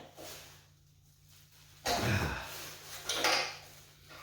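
Knocks and clatter of wrenches and metal axle hardware being handled while a generator's wheel axle is bolted to its frame. There is a sudden thump about two seconds in and another clatter about a second later.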